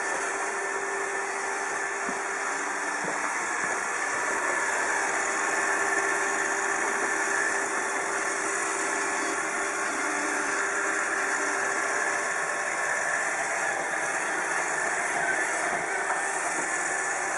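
iRobot Roomba 780 robot vacuum running: a steady motor hum with a hiss, unchanging throughout.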